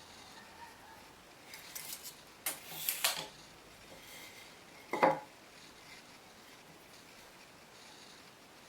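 Brief scraping and clattering of hard objects being handled, then one sharp knock about five seconds in.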